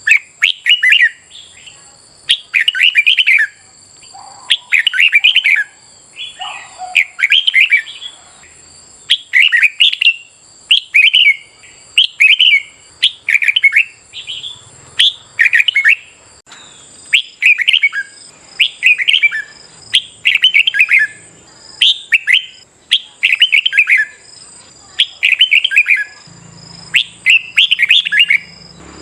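Red-whiskered bulbul singing: loud, quick warbling phrases repeated about once a second.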